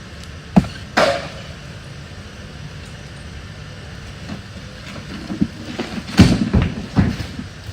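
Wooden furniture being bashed apart by hand: two sharp knocks about half a second and a second in, the second ringing briefly, then a cluster of heavy knocks and cracks about six to seven seconds in, over a steady low rumble.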